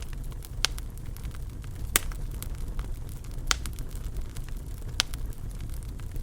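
Wood fire burning in a fireplace: a steady low rumble of the flames, with irregular sharp crackles and pops, the loudest four about a second and a half apart.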